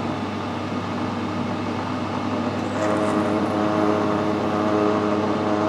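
Machine tool motor running steadily while a drill bit cuts into a brass part; about three seconds in a steady pitched hum joins as the drill bites.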